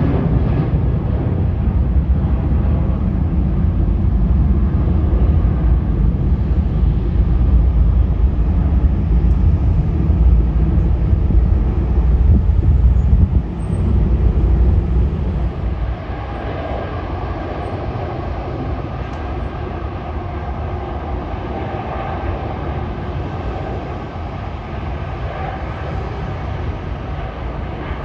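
Jet airliner engines at an airport: a loud, low rumble that drops off about halfway through, leaving a quieter, steady engine noise.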